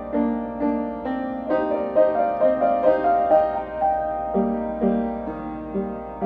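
A piano playing a moderate-paced melody with chords, notes struck about twice a second, each one ringing and fading before the next.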